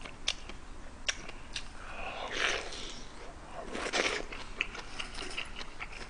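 Close-up eating sounds of a man picking at and chewing kimchi stew with chopsticks: wet chewing and mouth noises with scattered small clicks. There are two longer noisy swells, one about two seconds in and one about four seconds in.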